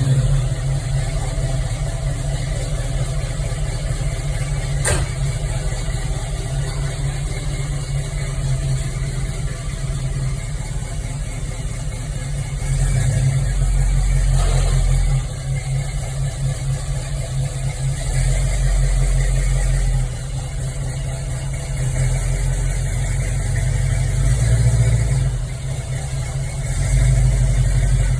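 1975 Chevrolet Camaro LT engine just after a cold start, running at idle with an even low pulsing. It rises in level for several stretches of one to three seconds and settles back each time, and there is one sharp click about five seconds in.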